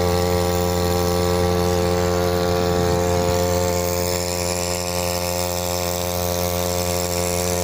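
Matsumoto MOB-830 3 hp air-cooled two-stroke outboard motor running steadily at an even speed, with a buzzing engine note.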